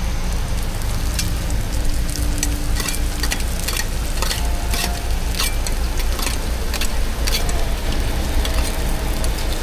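Egg pancakes frying in oil on a hot pan, a steady sizzle with frequent sharp crackles.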